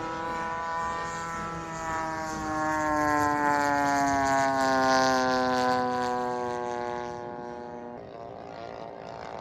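Engine and propeller of a large RC Spitfire model flying past. The note swells, peaks mid-pass and fades, its pitch sliding slowly down. About eight seconds in, the engine note drops out abruptly.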